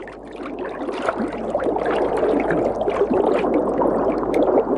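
Shallow river water splashing and gurgling, with many small sharp splashes over a steady rush, growing louder over the first couple of seconds.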